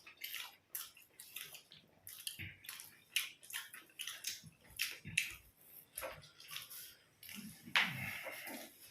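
Close-up chewing and mouth smacks of someone eating lachha paratha with brinjal fry: a quick, uneven run of small wet clicks, with a louder breathy noise near the end.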